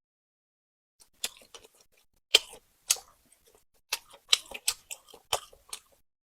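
Close-miked chewing of food: a quick, irregular run of sharp crunches and clicks that starts about a second in.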